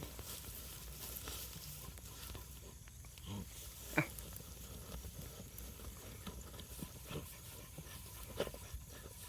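Faint scratching and rustling of dogs digging in soil, with scattered small knocks and one sharper short sound about four seconds in.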